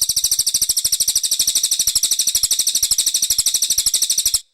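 Brown cililin songbird giving a long, rapid high-pitched trill of evenly repeated notes, about fifteen a second, that cuts off abruptly near the end.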